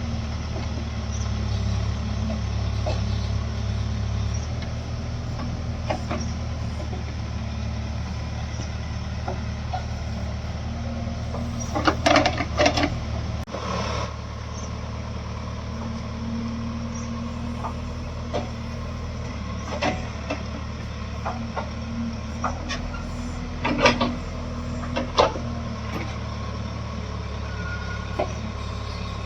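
Heavy diesel machinery, a JCB backhoe loader working beside a tractor, running with a steady low drone that is a little louder in the first few seconds. Clusters of clanks and knocks come about twelve seconds in and again around twenty-four seconds in.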